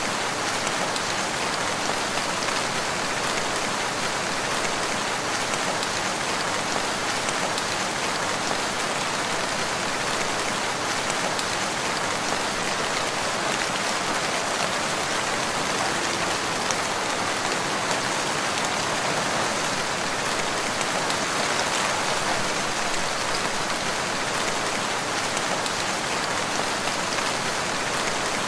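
Rain falling steadily and evenly, a dense wash of drops with no single loud event standing out.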